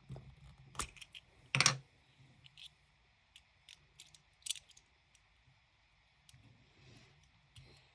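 Scattered clicks and taps of small objects being handled, with a louder knock about one and a half seconds in and a few sharper clicks about halfway through.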